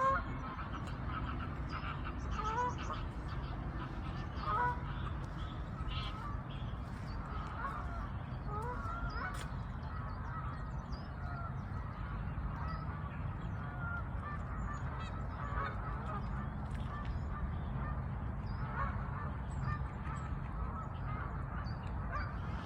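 A flock of geese honking, with ducks among them: many short, overlapping calls throughout, over a steady low rumble.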